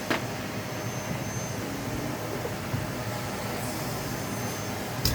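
Vacuum cleaner running steadily: an even rush of air with a faint high whine.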